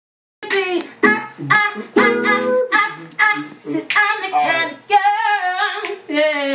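Solo singing voice in short, gliding phrases with no drum beat, starting about half a second in.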